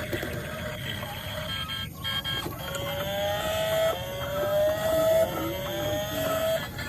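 A revving car engine sound that climbs in pitch three times, dropping back between each rise as if shifting up through gears.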